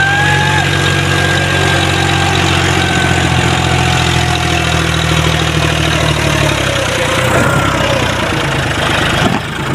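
John Deere 5045 D tractor's diesel engine running steadily, its note changing about two-thirds of the way through.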